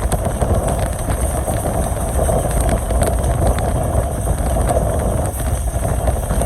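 Passenger train running along the track: a steady rumble of wheels on rails with faint clicks, and air rushing past.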